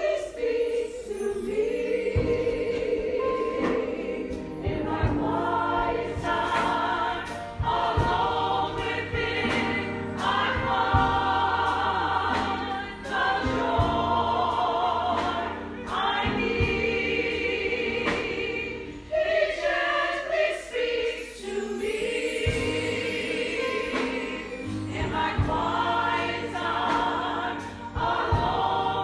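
Church congregation singing a gospel song together over a steady low accompaniment, which drops out briefly about two-thirds of the way through.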